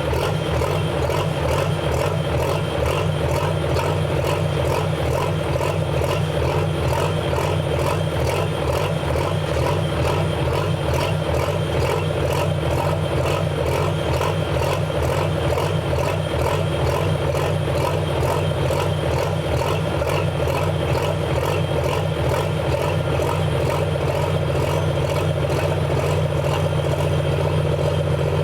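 Diesel pulling truck's engine running steadily at a constant speed, with an even, fast pulse and no revving.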